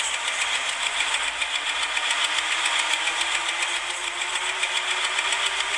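MEMU electric train heard from inside the coach: a steady mechanical running noise with a faint whine that rises slowly in pitch.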